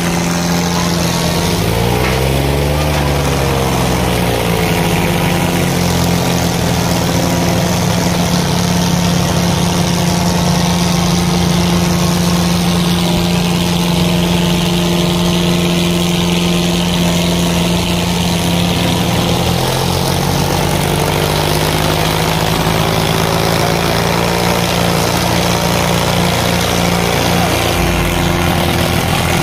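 Diesel tractor engine running hard and steady, its pitch briefly rising and falling about two seconds in and again around twenty seconds in.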